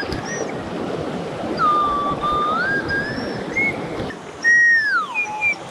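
A small owl flute blown in clear held whistle notes that step up and down, ending with a long note that glides down. A steady rushing noise runs behind the notes and stops about four seconds in.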